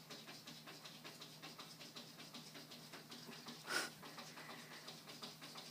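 Cat panting heavily: a quick, even run of faint breaths. A brief louder noise cuts in about two-thirds of the way through.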